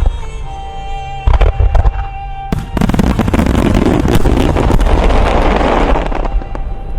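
Aerial fireworks shells bursting with deep booms over the show's music, then a loud, dense crackling for about three and a half seconds that fades out as the crackling stars burn out.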